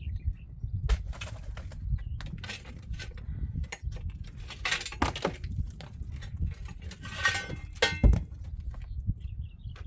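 Irregular clinks, knocks and scrapes of hand building work, over a steady low rumble, with two longer scraping passages and a single loudest thump about eight seconds in.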